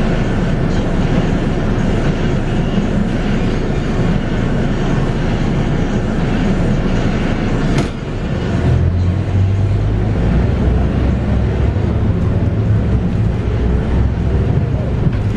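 Cabin noise of a Scania K230UB bus on the move: its 8.9-litre five-cylinder Scania DC9 diesel with a ZF Ecomat automatic gearbox, plus road and body noise. A short knock comes about eight seconds in, after which the engine's low drone grows stronger and steadier.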